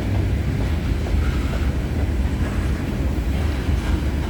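Freight train cars rolling past on the track: a steady low rumble of wheels on rail.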